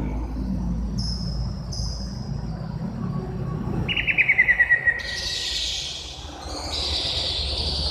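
Green leafbird (cucak ijo) singing: a few short high chirps, then a fast trill of about ten notes falling in pitch around four seconds in, followed by harsher, scratchier high notes.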